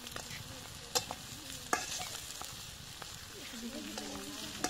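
Boiled eggs and shallots sizzling in hot oil in a metal kadai, stirred with a metal spatula that scrapes the pan. Two sharp clicks of the spatula against the pan come about one second and just under two seconds in.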